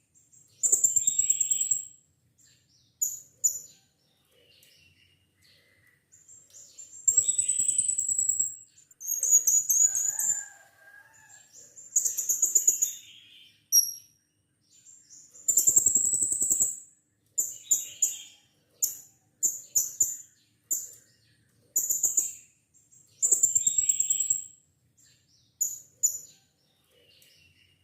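Blue-crowned hanging parrot (serindit) giving a series of shrill, high-pitched calls. Some are drawn out for a second or two and others are short and clipped, with brief pauses between them.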